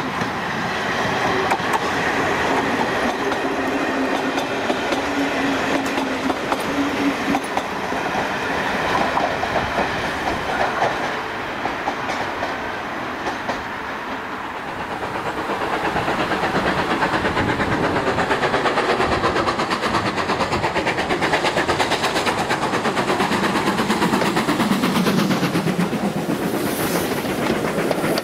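A BR Class 101 diesel multiple unit runs past with a steady engine note and the wheels clattering over the rails. About halfway through, after a short lull, a steam-hauled train approaches and passes close, and the fast, dense clatter of its coach wheels grows louder and holds to the end.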